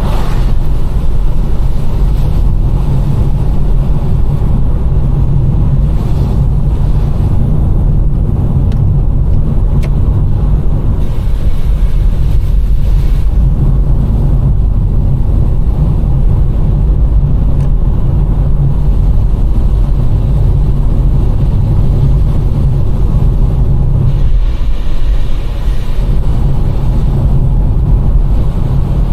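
Car driving: a steady low rumble of engine and road noise. Near the end the rumble briefly lightens and a higher hiss rises.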